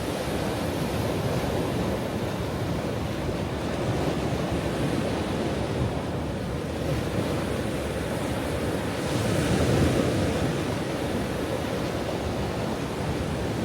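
Ocean waves breaking and washing on a shore, a steady surf noise that swells a little about two-thirds of the way through.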